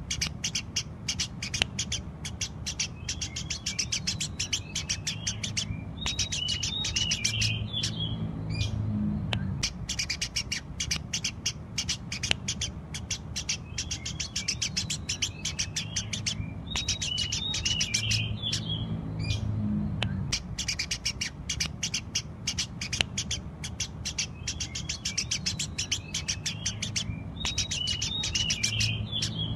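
Eurasian tree sparrow chirping in quick, dense runs of short sharp chirps broken by brief pauses, the same phrase coming round about every ten seconds, over a steady low rumble.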